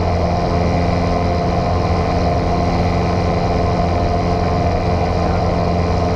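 Light single-engine airplane's piston engine and propeller droning steadily, heard from inside the cabin.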